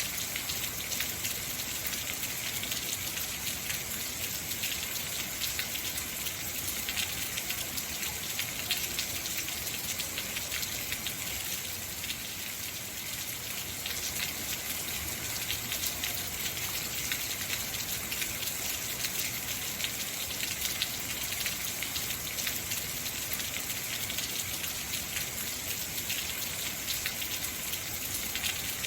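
Heavy rain falling steadily, a dense hiss of drops with many fine patters on surfaces.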